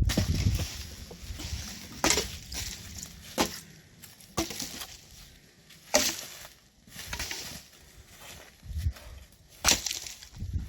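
Logs and branches being handled: irregular wooden knocks, cracks and snapping twigs, about one every second or two, with a heavy thud at the start and another near the end.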